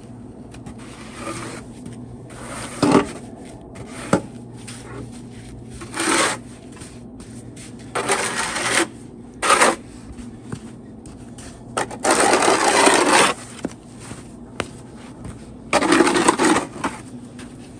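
Backpack leaf blower running at a low steady hum and opened up to full throttle in short blasts of air noise, about seven times, the longest lasting over a second, used to blow snow. A sharp click comes about four seconds in.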